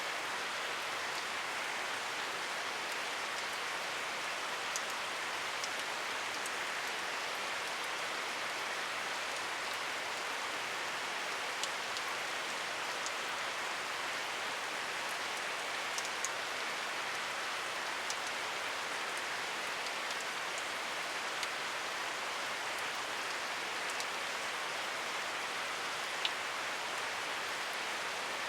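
Steady rain falling, an even hiss with scattered sharper drops ticking now and then.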